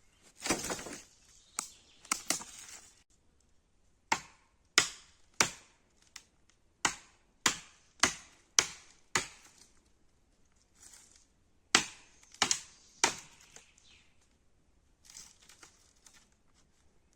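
An axe chopping wood: a steady run of sharp strikes, about one and a half a second, then a short pause and three more. Some rustling and scuffing of handling noise comes before the chopping.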